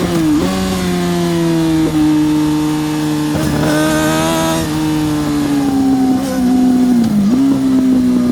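Yamaha R6 600cc inline-four race engine running at high revs, its pitch sagging slowly, with quick gear-change dips near the start and about seven seconds in. A second motorcycle's engine rises and passes between about three and a half and four and a half seconds in.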